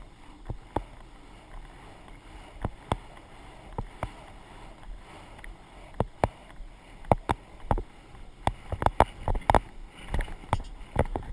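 A ridden horse's hooves and tack heard through a rider-mounted GoPro: sharp irregular knocks and clicks, sparse at first, then coming two or three a second in the second half.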